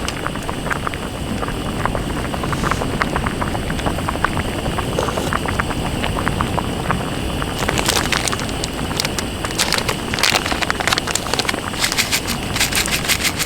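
Wood campfire crackling and popping over a steady low rush of sea wind, the crackles coming thicker in the last few seconds.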